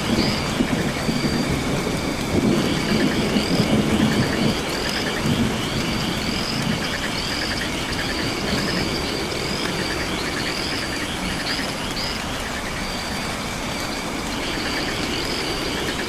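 Nocturnal rainforest ambience: steady rain with frogs calling, short upward chirps every half second or so over a pulsing chorus. A low thunder rumble swells in the first five seconds.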